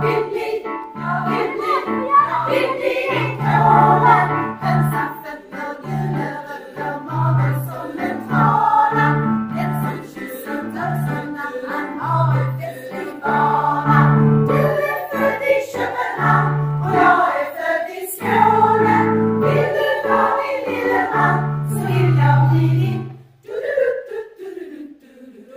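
A choir singing over sustained low accompaniment notes. The music breaks off near the end, and a short falling sound follows.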